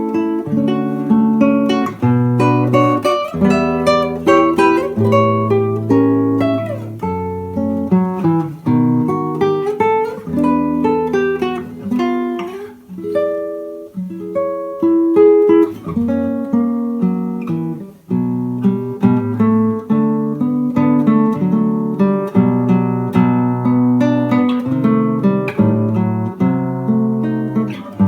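Solo acoustic guitar playing a slow, melodic nocturne, with plucked bass notes under the melody line. The sound dips briefly about 13 and 18 seconds in before the playing resumes.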